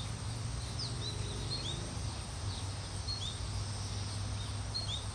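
Songbird chirping: short, quick downward-sliding notes, a couple a second at irregular spacing, over a steady low outdoor hum.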